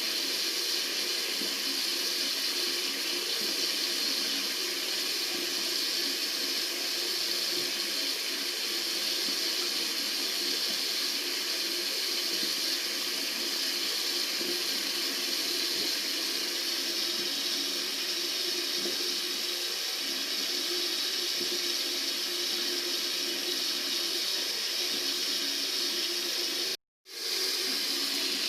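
Tap water running steadily from a faucet, a continuous even rush of water. It cuts out for a moment near the end and swells straight back in.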